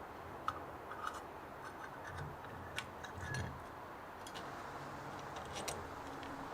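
Scattered light clicks and taps of small metal carburetor parts and hand tools being handled during a rebuild, with a few soft low thumps over a steady hiss.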